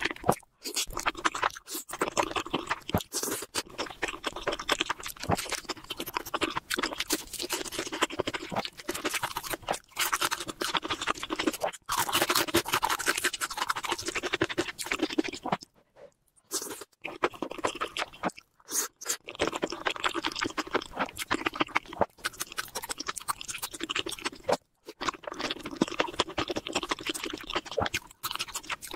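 Close-miked ASMR eating: a person chewing soft rice cakes in a creamy sauce, a dense run of wet, crackly mouth sounds broken by a few brief silences.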